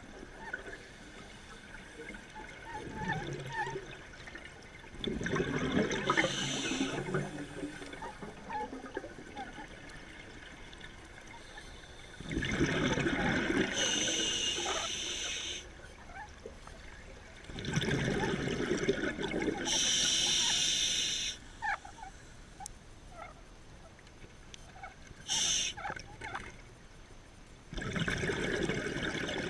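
Scuba diver breathing through a regulator underwater: loud gushes of breath and exhaled bubbles recur every few seconds, each lasting one to four seconds. Faint scattered clicks and crackles sound between them.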